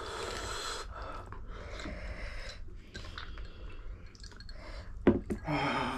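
Mouth sounds of eating spicy ramen noodles: wet chewing with small clicks, and a sharp knock about five seconds in.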